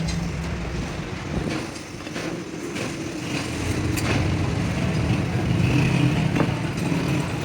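A motor or engine running with a steady low hum that dips briefly about two seconds in, with a few sharp clicks over it.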